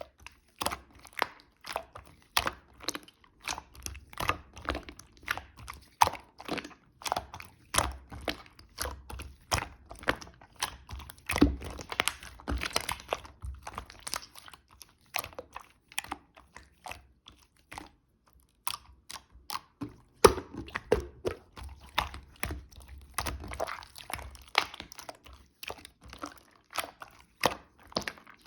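Hands pressing, poking and stretching a white slime, making irregular sticky clicks and crackling pops, several a second, with a short lull about two-thirds of the way through.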